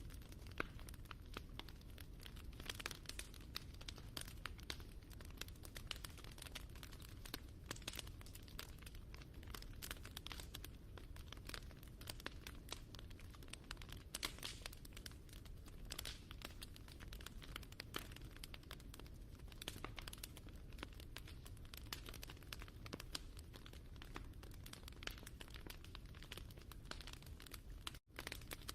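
Crackling wood fire: a steady low rumble of flames under a dense, continuous patter of small pops and snaps. The sound cuts out for a moment near the end.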